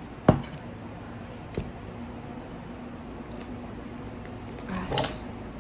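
Album packaging being handled: a sharp knock about a quarter of a second in, a lighter tap a second later, and a short burst of crinkly clicks near the end.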